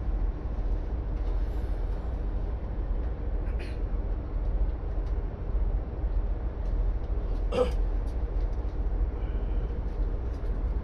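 Steady low rumble of a diesel railcar running, heard from inside the car, with faint ticks and a single sharp knock about two-thirds of the way through.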